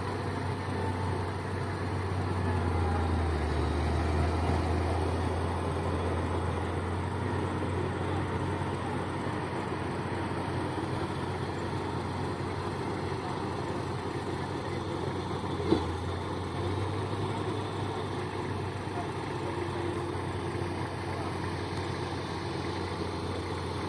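Heavy vehicle engine running steadily at low revs, a low even hum with a brief click about two-thirds of the way through.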